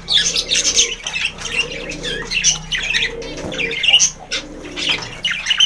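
Budgerigars chattering: a steady stream of quick, high chirps and squawks.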